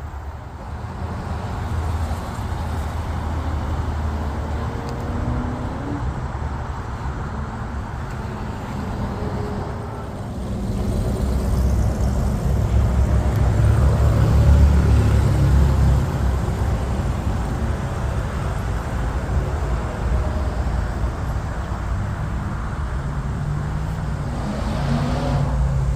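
Car engine running with a steady low rumble, growing louder about halfway through and easing off again.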